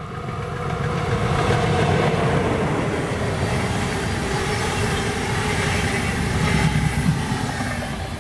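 Locomotive-hauled regional passenger train passing close by on an electrified main line: the locomotive, then the coaches rolling past on the rails. It grows loud within the first second or two, stays loud while the coaches go by, and fades near the end as the rear control car leaves.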